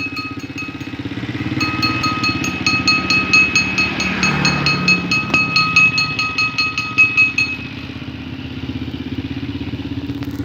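Vespa scooter engine running steadily at idle after a tune-up, with a short swell about four to five seconds in.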